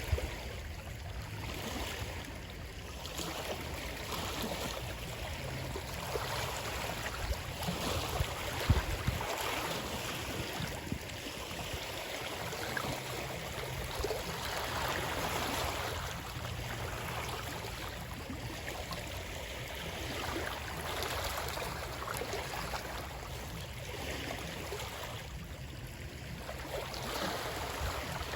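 Running water, a stream flowing continuously and swelling and easing every few seconds over a low rumble, with one sharper splash or knock about nine seconds in.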